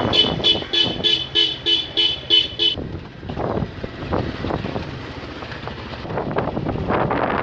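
A vehicle horn sounding a rapid string of about nine short, even beeps, roughly three a second, then stopping. After it comes steady road and wind noise from the moving motorcycle.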